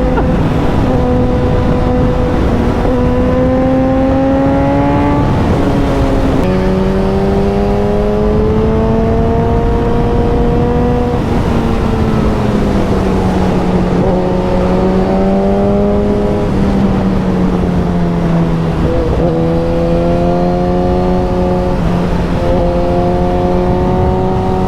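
Suzuki motorcycle engine under way, its pitch climbing through the revs and stepping down sharply at a gear change about six seconds in. It climbs again, eases off slowly, steps once more before twenty seconds and then holds steady, over a constant rush of wind and road noise.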